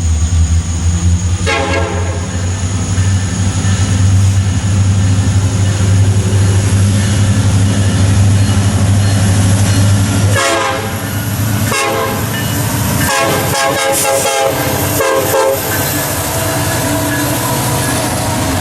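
Diesel freight locomotives passing with a deep engine rumble while the air horn sounds. The rumble drops away about ten seconds in, leaving the clicking and rattle of the passing cars.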